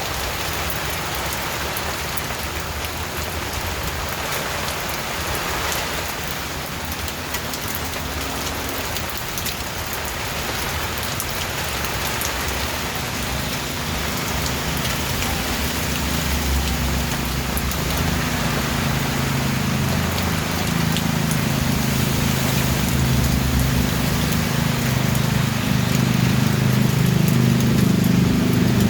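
Steady rain falling, an even hiss of drops on surfaces. About halfway through, a low drone sets in beneath it and grows louder to the end.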